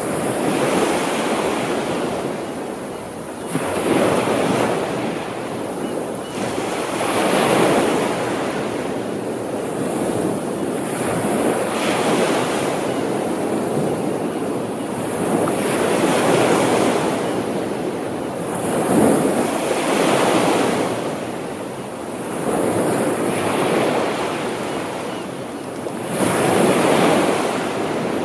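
Small sea waves breaking and washing on the shore, swelling and ebbing in a steady rhythm, one wash every few seconds.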